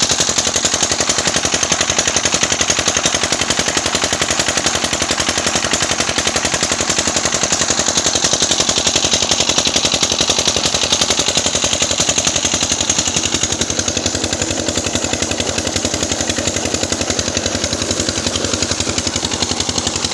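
A small engine mounted on a wheelbarrow running steadily under load, driving a tube-well water pump, with a loud, fast, even chugging beat.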